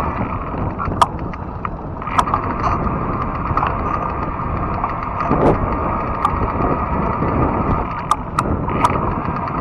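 Fat-tire e-bike riding along a trail: a steady rumble of tires and wind, with a steady hum and scattered sharp clicks and rattles from the bike.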